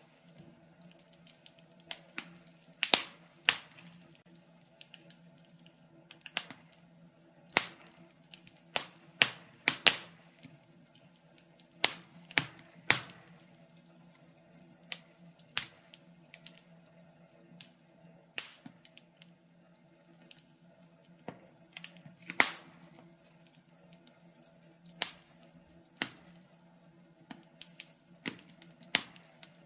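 Wood fire crackling in a fireplace: irregular sharp pops and snaps, some louder than others, over a faint steady hum.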